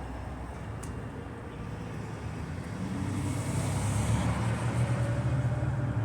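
Street traffic: a vehicle engine running, growing louder about halfway through, with a brief hiss in the middle.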